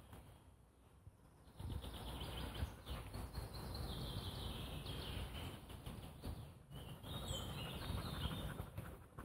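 A songbird singing in the forest canopy, two short falling phrases. A steady rushing noise sets in about a second and a half in and is the loudest sound.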